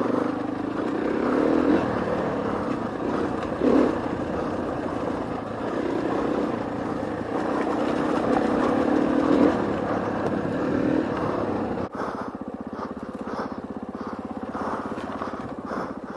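KTM 450 EXC-F's single-cylinder four-stroke engine running under the rider, its revs rising and falling with the throttle over rough dirt trail. About twelve seconds in it drops suddenly to a quieter, lower, steadier note.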